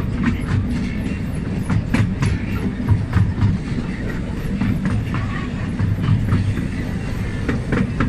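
Small amusement-park railway train running along its track, heard from on board: a steady low rumble with frequent irregular clicks and rattles from the wheels and carriages.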